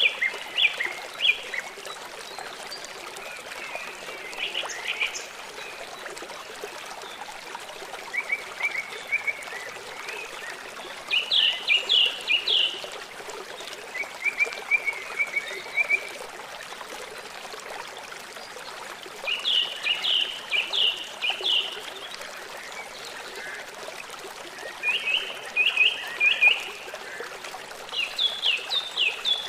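A small songbird singing: eight short phrases of rapid, repeated chirping notes a few seconds apart, over a steady background hiss.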